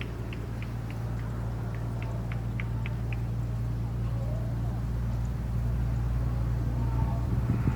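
Steady low motor hum, like a small engine running, with a series of short high chirps or ticks, about three a second, over the first three seconds.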